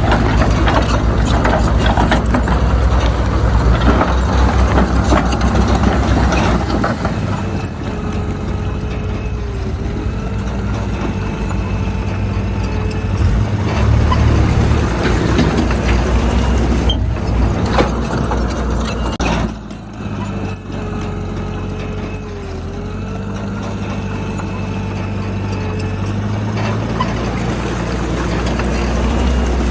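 Heavy diesel earthmoving machinery running and working, the engine note rising and easing with load, with a faint whine that comes and goes twice.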